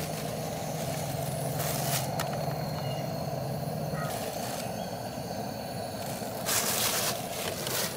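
Portable gas camping stove burner running steadily under the boiling pot, with a few brief rustles as ingredients are handled. A low hum runs underneath and stops about halfway through.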